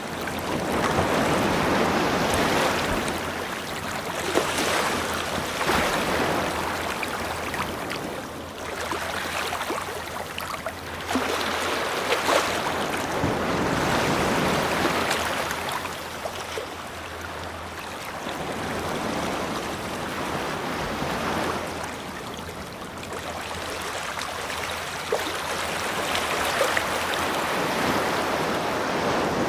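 Ocean waves breaking and washing up on a beach, the rush of surf swelling and falling back every few seconds.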